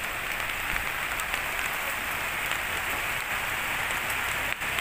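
Steady rain falling and pattering on surfaces, an even hiss with scattered drip clicks.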